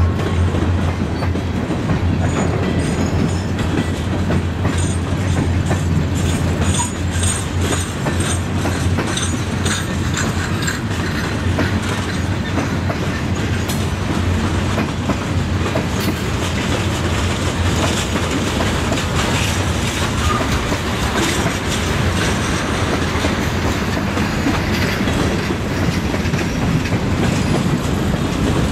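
Freight cars (boxcars, tank cars and covered hoppers) rolling past on the rails, a steady clickety-clack of wheels over rail joints over a continuous low rumble.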